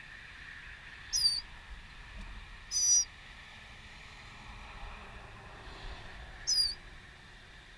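A bird calling three times, each call a short high note sliding downward, spaced a couple of seconds or more apart, over a faint steady background hiss.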